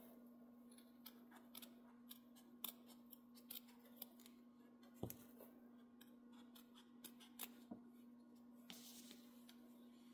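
Scissors snipping, a dozen or so faint, irregular snips, with one louder knock about halfway through, over a faint steady hum.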